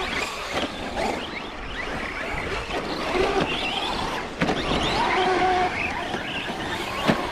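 Electric RC trucks driving over dirt, their motors whining up and down in pitch as the throttle changes, with two sharp knocks, one midway and one near the end.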